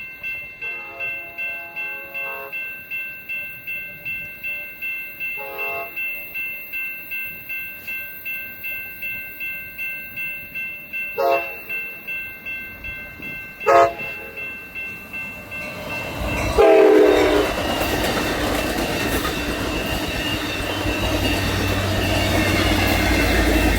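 Railroad grade-crossing bell ringing about twice a second while an approaching train sounds its horn several times, with short blasts and a last, loudest blast as it reaches the crossing. The train then passes with a loud, steady rumble of wheels on rails.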